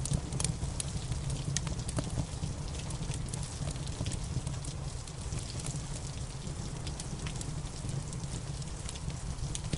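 Wood fire crackling with frequent irregular pops and snaps over steady rain and a low rumble.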